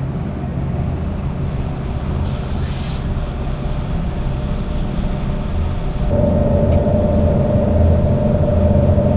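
Shuttle boat's engine running with a steady low drone. About six seconds in it grows louder and a steady whine joins it, as the boat picks up throttle.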